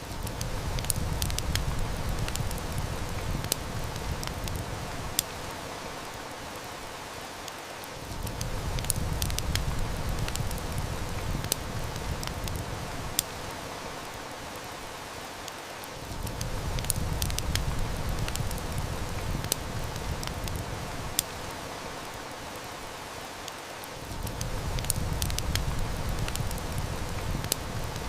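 Steady heavy rain hiss mixed with the sharp, scattered crackles and snaps of a wood fire, over a low rumble that swells and fades away about every eight seconds.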